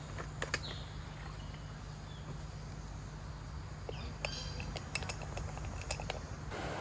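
Scattered light clinks and clicks of cooking gear being handled, over a steady low hum. Near the end a louder steady rush of wind sets in.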